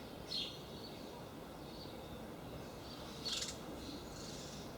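Short, high bird chirps, one about a third of a second in and a louder one about three seconds later, over faint steady outdoor background noise.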